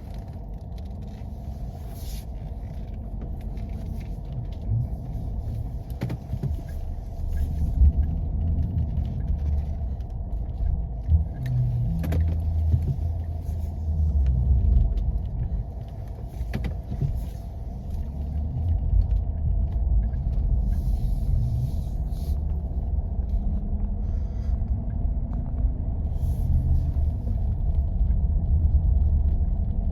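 Jeep driving over snowy back roads: a steady low rumble of engine and tyres, the engine note rising and falling gently several times, with a few short knocks from the bumps.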